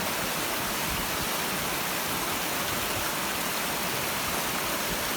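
Stream water rushing steadily, an even hiss of flowing water with no breaks.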